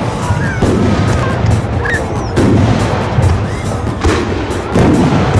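Aerial firework shells bursting in a dense run of bangs and crackles, with heavier booms about every two seconds.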